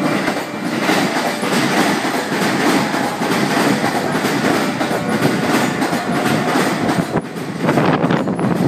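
Keihin-Tohoku Line electric commuter train running past on the adjacent track, its wheels clattering over the rail joints in a steady run of clacks over a continuous rumble. The noise dips briefly about seven seconds in, then comes back louder.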